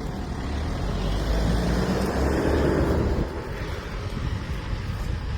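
A car driving past close by, its engine and tyre noise swelling to a peak about halfway through and then dropping away.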